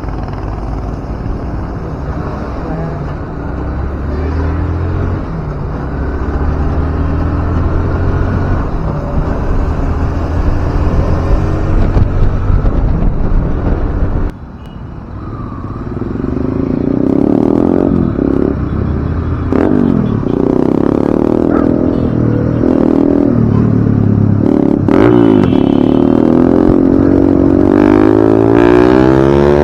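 Motorcycle engine running on the road, with wind rushing over the microphone. About halfway through the sound drops suddenly, then the engine returns with its note rising and falling as the rider speeds up and eases off.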